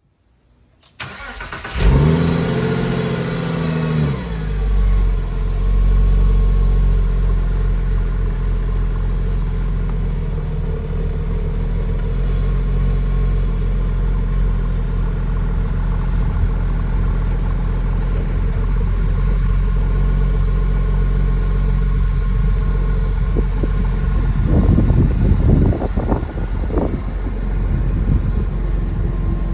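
A 2000 Porsche 911 Carrera 4's water-cooled 3.4-litre flat-six being started from cold: the starter turns briefly, then the engine catches about two seconds in with a flare of revs that falls away. It settles into a steady cold fast idle, with a few short blips of the throttle near the end.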